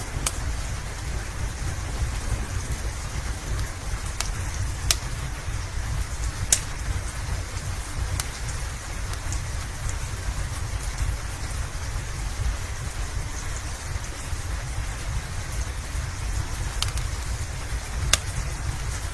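Steady rain with a low rumble underneath, and a fireplace popping with sharp crackles every few seconds.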